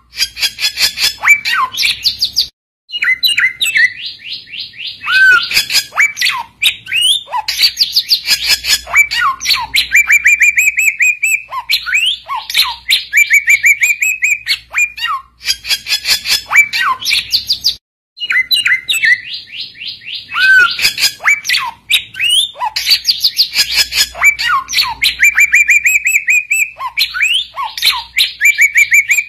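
Samyong bird singing, a loud, fast chattering song of rapid trills mixed with short downward-sliding notes, broken by two brief pauses, the kind of song used as a lure to call other samyong to answer.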